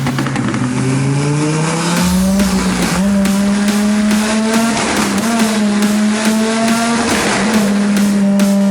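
Twin-turbo Lamborghini Gallardo's V10 engine revving hard: its pitch climbs over the first couple of seconds, then holds high with brief dips about three, five and seven seconds in.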